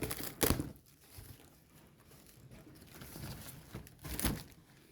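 Rustling, crinkling handling noise with a few short bumps near the start and one more about four seconds in.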